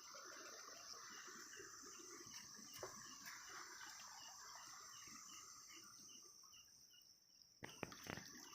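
Night insects calling faintly: a steady high trill with a short chirp repeating about three times a second. A couple of soft knocks near the end.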